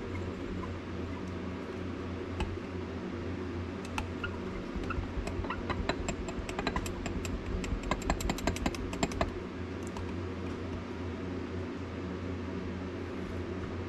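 A run of quick, light clicks and taps, several a second for about five seconds in the middle, over a steady low hum.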